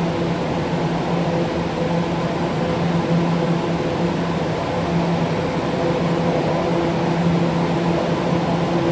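Steady hum and rumble of a New York City subway train, a constant machine drone over an even running noise.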